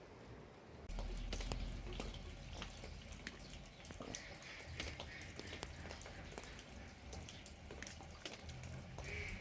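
Rain dripping: irregular drops tapping one by one over a steady low rumble that comes in about a second in.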